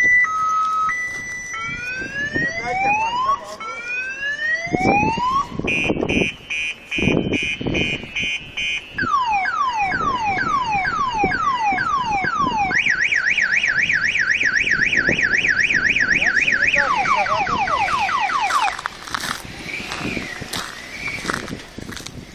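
Electronic car alarm siren cycling through its tone patterns: a hi-lo two-tone, slow rising sweeps, a rapid pulsing tone, quick falling sweeps and a fast warble. It stops a few seconds before the end.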